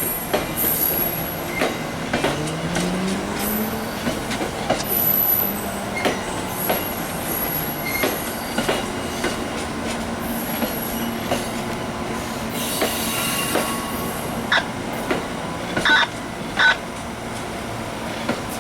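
Passenger train rolling along the track, heard from on board: wheels clicking irregularly over rail joints and switches, with a steady rumble. A low tone rises in pitch a couple of seconds in, and two short wheel squeals come near the end.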